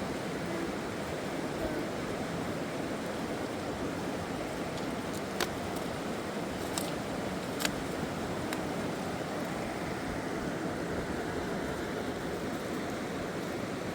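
Steady rushing of a fast-flowing mountain river, with a few short sharp clicks a little past the middle.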